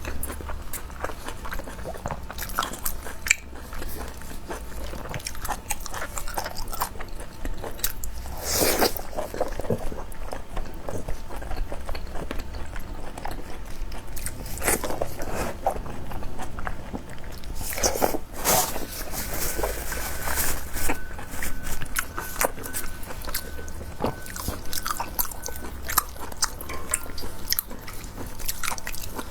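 Close-miked eating: a person chewing and biting food with irregular wet clicks and smacks, and a few louder bites about 9 and 18 seconds in.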